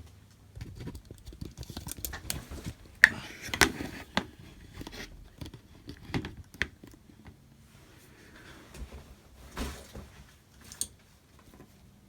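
Irregular clicks, taps and knocks of equipment and parts being handled on a workbench, with the sharpest click about three seconds in.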